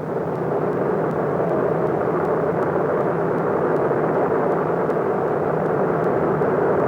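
Steady, dense rushing noise of a Kilauea lava fountain in eruption, swelling slightly at the start and then holding even.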